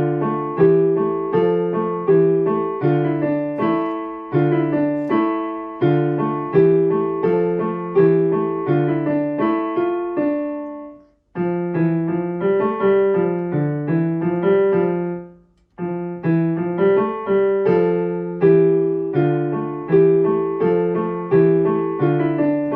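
Background music: solo piano playing a steady pattern of notes, stopping briefly twice before picking up again.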